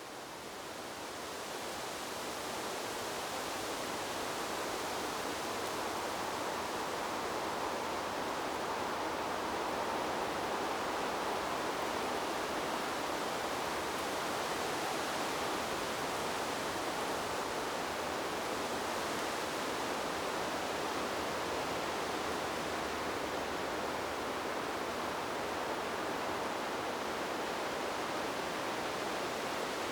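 Wind rushing through trees as a dense, steady hiss-like rush, swelling up over the first few seconds and then holding even, with no distinct gusts or rustles standing out.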